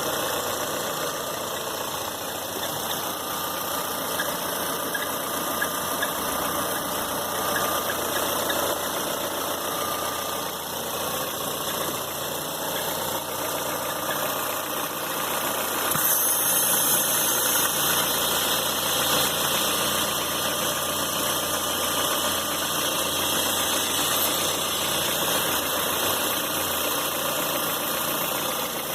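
Citroën C4 Pallas engine running steadily, making the abnormal engine noise the owner is showing. About halfway through the sound turns brighter and a little louder.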